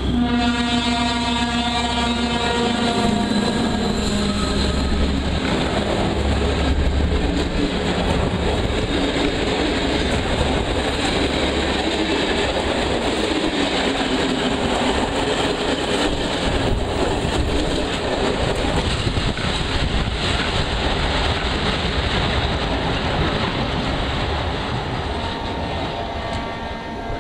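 A train sounds its horn, a steady tone that drops slightly in pitch after about three seconds. It then passes close by, with a long steady rumble of the train going past.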